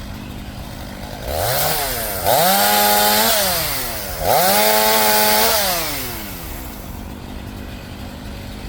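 Gas chainsaw idling, then throttled up twice to full revs for about a second each while cutting limbs from a fallen bur oak, its pitch dropping between the cuts and falling back to idle after the second.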